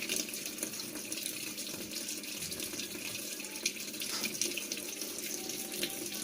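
Mains water running into a washing machine drum through the inlet valve, a steady gushing hiss.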